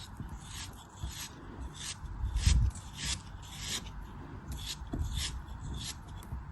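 Repeated crisp scraping and crunching strokes, roughly two a second, from a blade or tool working through a soft, crumbly craft material. A louder, deeper thump comes about two and a half seconds in.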